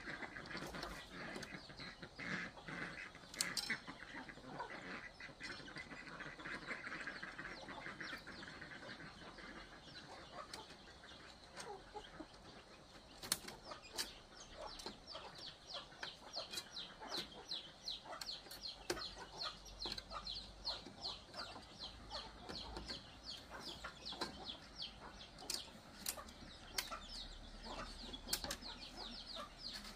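Birds chirping: a fast run of short, high chirps begins about halfway through and keeps on to the end, with scattered sharp clicks.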